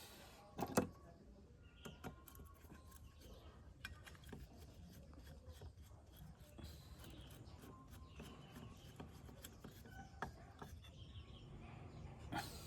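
Faint scattered clicks and light knocks over a low steady rumble, with one sharper knock about a second in.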